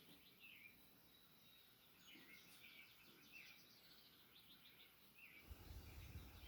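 Faint birdsong: several birds chirping and trilling, with short down-slurred calls about once a second. A low rumble comes in near the end.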